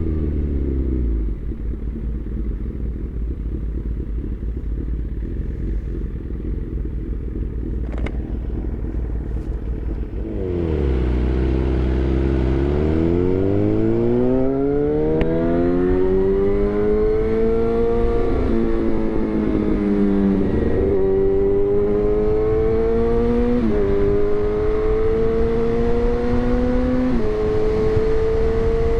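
Suzuki GSX-R1000's inline-four engine through a replica SC-Project exhaust. Revs fall away, then the engine runs low for about ten seconds. It then pulls away hard, the revs climbing and dropping sharply at four upshifts.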